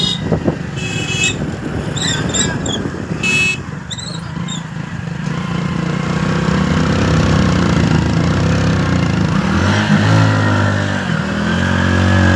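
Motor vehicle engine running steadily, its pitch shifting up and down near the end as the engine speed changes. Two brief high-pitched toots come about a second in and again after three seconds, with a few short chirps between them.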